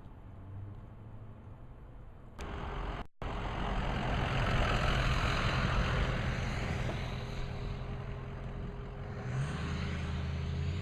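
Motor vehicle engine and tyre noise, swelling as a vehicle passes about four to seven seconds in. A click and a short break in the sound about three seconds in mark an edit.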